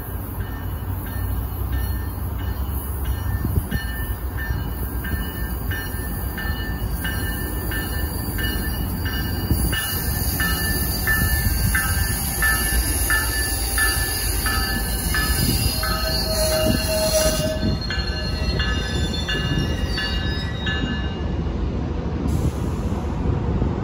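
Tri-Rail commuter train, cab car leading, arriving and rolling past with a low rumble that grows louder as it nears. A bell rings steadily about twice a second through most of the approach, and a brief higher tone sounds about two-thirds of the way in.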